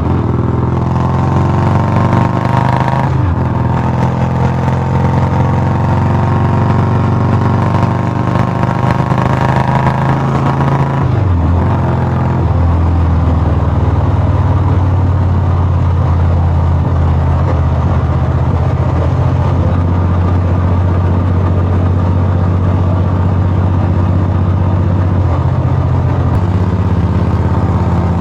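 Royal Enfield Bullet single-cylinder motorcycle engine running through a loud aftermarket AVOGUE exhaust, with a steady beat that dips in pitch briefly twice, a few seconds in and again about eleven seconds in.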